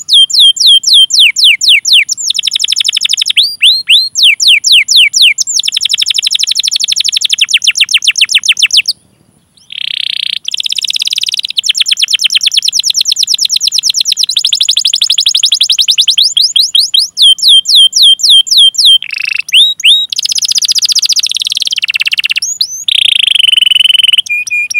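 Domestic canary singing: fast trills of rapidly repeated falling whistled notes and dense rolls, with a brief pause about nine seconds in.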